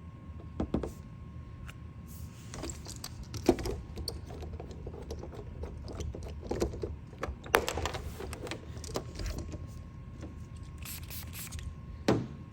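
Irregular clicks, knocks and scrapes of hand tools working on a car's roof panel during glue-pull paintless dent repair, with the loudest knocks about three and a half seconds in, seven and a half seconds in, and near the end. A faint steady high hum runs underneath.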